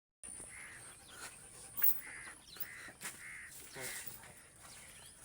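Bird calls repeated at a steady pace, about one every two-thirds of a second, with a sharp knock near 2 seconds in.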